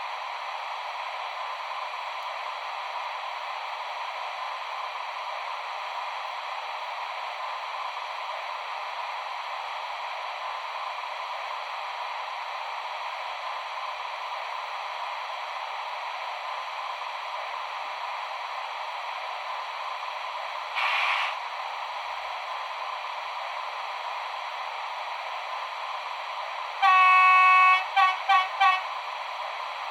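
Sound decoder of a Piko H0 model of a PKP EU07 electric locomotive, playing a steady hissing running sound through its small speaker. About two-thirds of the way in there is a short burst of hiss. Near the end the horn sounds: one blast, then three short toots.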